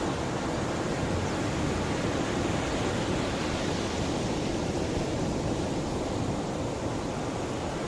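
Mediterranean sea waves washing ashore: a steady rush of surf that eases a little midway and builds again near the end.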